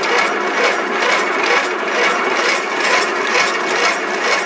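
Cub Cadet LT1042 lawn tractor's starter cranking the engine on a cold start, a steady rhythmic churning with no sign yet of the engine catching.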